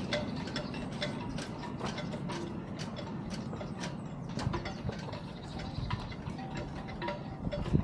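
Hand tools working on metal: a quick, irregular run of small sharp clicks and taps, a few per second, like a ratchet being worked.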